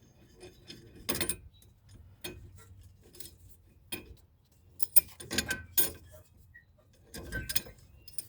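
Metal brake parts and hand tools clinking and knocking as they are handled and fitted, as a string of separate sharp clicks, several in quick succession about five seconds in and again near the end.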